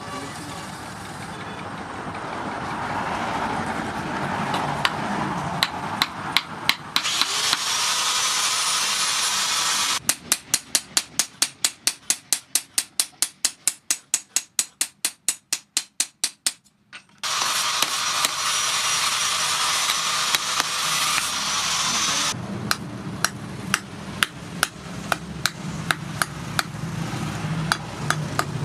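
Opens with hissing as the freshly quenched blade steams. Then a hand hammer strikes the steel knife blade, made from tractor disc-plough steel, on an anvil: a fast, even run of about four blows a second midway, and more spaced blows near the end, over a steady hiss.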